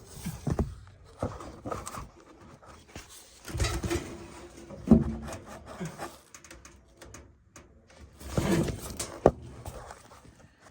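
Irregular knocks, clanks and scrapes of hands working on the furnace's sheet-metal parts.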